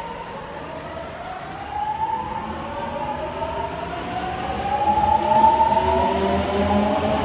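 Subway train's traction motors whining as it accelerates: several tones climb steadily in pitch together and grow louder over the last few seconds.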